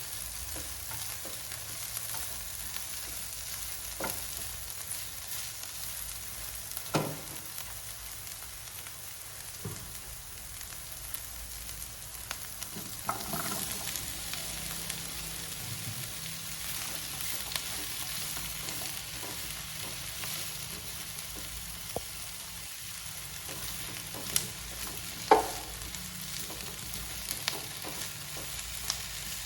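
Food sizzling as it fries in a pan and is stirred, a steady hiss broken by a few sharp knocks of a utensil against the pan, the loudest near the end.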